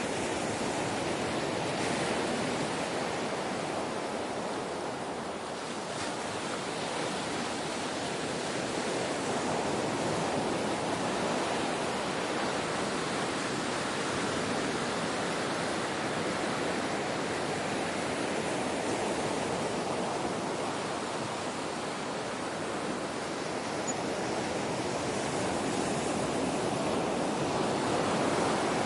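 Ocean waves washing onto a shore, a steady rush of surf that swells and eases slowly every few seconds.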